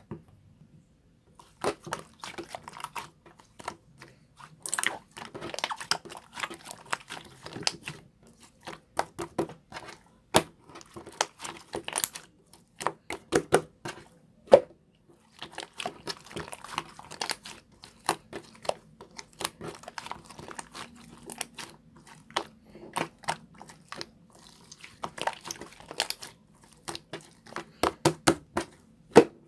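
Slime being squished and pressed by hand: a dense, irregular run of small pops, clicks and crackles, with brief pauses.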